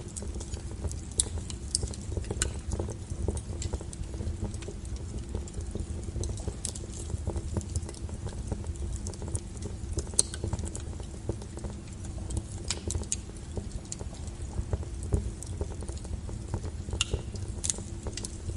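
Wood fire burning: a steady low rumble of flames with irregular sharp crackles and pops from the firewood, a few of them louder.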